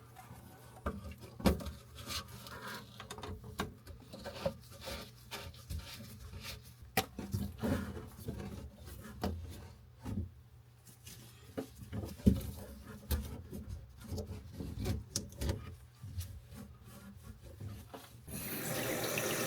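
Scattered knocks, clicks and rubbing of hands and plumbing fittings as the faucet's supply hoses are tightened by hand. About 18 seconds in, the new faucet is turned on and water starts running steadily into the sink.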